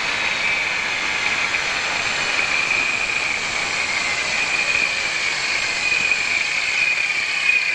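Running car engine at the alternator, whose faulty overrunning clutch pulley makes a ringing knock, over a steady high-pitched whine.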